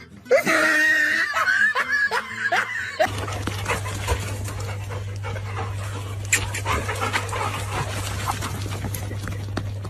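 A dog vocalising with high, bending cries for about three seconds. Then an abrupt change to a steady low hum with scattered clicks and taps.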